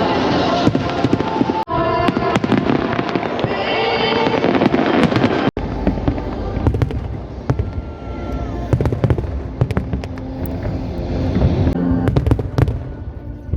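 Fireworks show: many sharp bangs and crackles of aerial shells over music, with heavy low booms in the second half.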